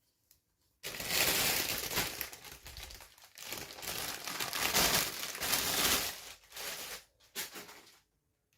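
Plastic toy packaging crinkling and crackling as it is handled and torn open. It starts suddenly about a second in and goes on for about six seconds, then gives way to a few short clicks.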